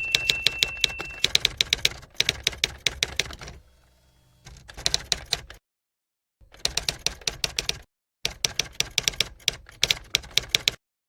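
Rapid typewriter keystroke clicks in four bursts, split by short dead-silent pauses, stopping shortly before the end.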